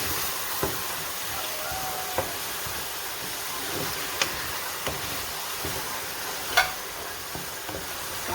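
Food frying in a pan with a steady sizzle, broken by a few sharp clicks of a utensil against the pot, the loudest about two-thirds of the way through.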